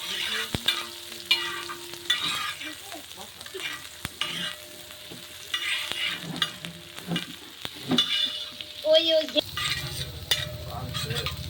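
Chopped green chilli and onion sizzling in hot oil in a pan while a metal spatula stirs them, scraping in irregular strokes with sharp clicks against the pan. A low steady hum comes in near the end.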